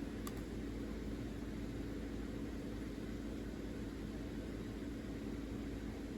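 Steady low hum over an even hiss, with one faint click just after the start.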